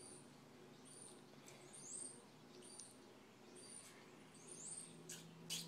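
Small birds chirping faintly: short high chirps and quick rising tweets every second or so. Two brief hissy noises near the end.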